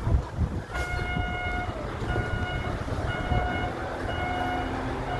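Truck's reversing alarm beeping about once a second, starting about a second in, over the low running of the truck's engine.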